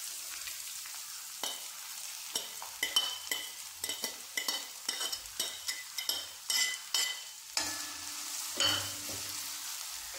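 Chopped ginger and green chillies sizzling as they fry in hot coconut oil in a metal pan. A steel spoon clinks again and again as it scrapes them off a plate and stirs them against the pan.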